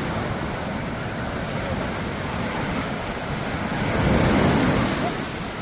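Sea waves breaking and washing up on a beach, a steady rush of surf that swells to a louder break about four seconds in.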